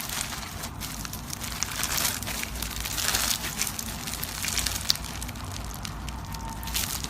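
Slime being squeezed and worked by hand, giving a continuous crackling, popping sound made of many small clicks that swells a couple of times.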